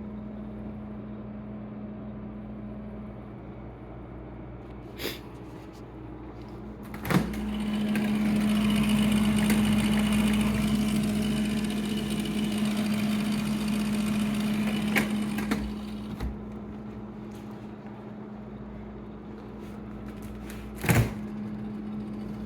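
Old Kenmore refrigerator running with a steady low hum. A sharp click about seven seconds in is followed by a louder rushing noise lasting about eight seconds. There are a few lighter clicks, and a double knock near the end.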